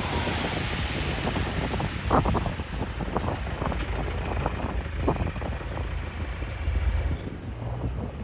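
A train rolling past: a steady low rumble with irregular metallic clanks and knocks, the loudest about two seconds in.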